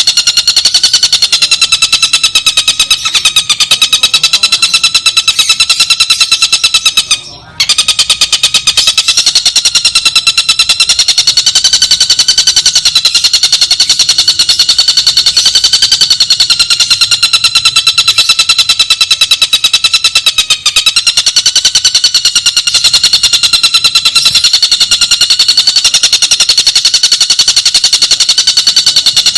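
Bird-training (masteran) recording of tengkek buto song: a fast, unbroken buzzing trill at a steady pitch, with a short break about seven seconds in.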